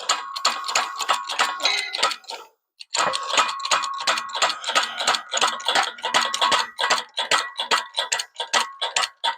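Rapid, even metallic clicking with a faint ringing tone, about six clicks a second. It pauses briefly about two seconds in, then resumes.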